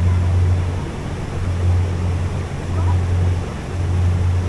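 Small boat's motor running steadily under way, a low drone that swells and eases slightly every second or so.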